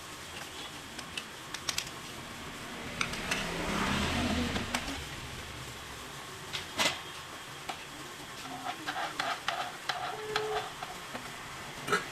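Scattered clicks and clinks of hand tools and metal engine parts being handled, with a louder click about seven seconds in and a swell of rushing noise around four seconds in.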